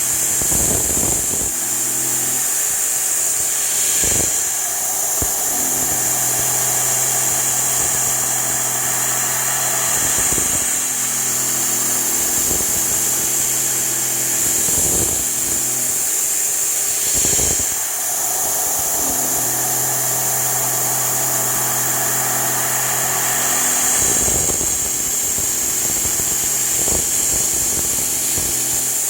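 G0704 CNC milling machine cutting a part: the spindle and end mill run steadily under a constant high hiss, while a low pitched hum from the machine comes and goes in stretches of several seconds, broken by a few brief whooshes.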